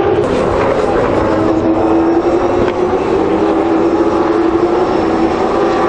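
V8 Supercar race engine running flat out at high revs, a loud, steady engine note that holds its pitch with little change.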